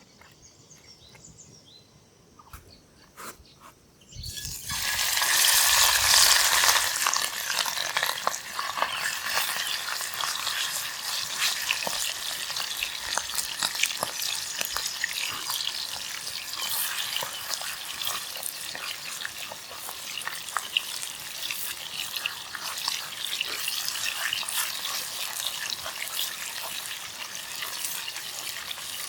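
Food sizzling in a hot pan. The sizzle starts suddenly about four seconds in as the food goes in, is loudest at first, then settles to a steady sizzle with crackles and pops.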